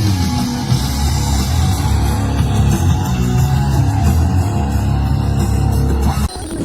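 Rock music with electric guitar and drums playing loud with heavy bass on a Sony ULT Field 1 portable Bluetooth speaker, dipping briefly near the end.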